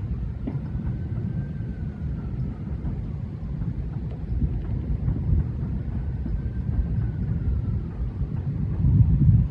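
Thousands of distant fireworks exploding across a city, merged into a continuous low rolling rumble like thunder, with a few sharper pops. A faint high whistle rises and falls twice.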